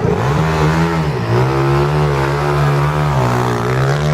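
Racing motorcycle engine running hard, its pitch dipping twice and climbing back each time.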